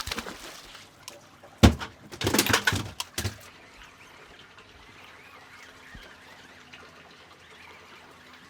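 A heavy thump, then about a second of loud water splashing as a mutton snapper goes into the boat's fish well; after that a faint steady trickle of water.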